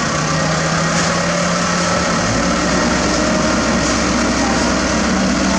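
Heavy construction machinery with diesel engines running steadily, with a change in the engine tones about two seconds in as a deep low hum sets in.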